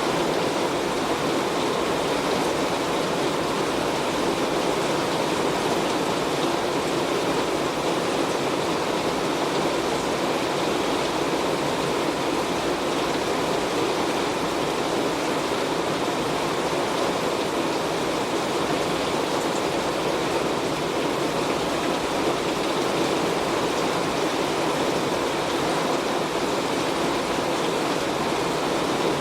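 Heavy rain falling steadily on a metal roof, a dense, even hiss with no break.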